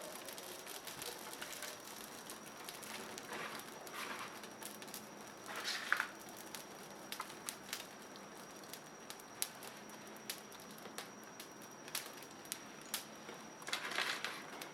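Small campfire of freshly lit kindling crackling, with irregular sharp pops and, a few times, a short rustling burst.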